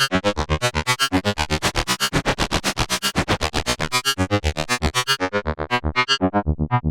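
K-ACCUMULATOR synthesizer module in its two-operator FM mode (2OP) playing a fast sequenced melody of short, plucky notes, about six or seven a second. The tone turns brighter and buzzier about two to four seconds in, then grows darker again near the end.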